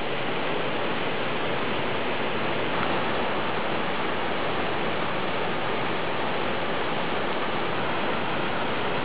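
Small jungle waterfall, the water pouring steadily and splashing into the pool below, a loud, even rush with no change.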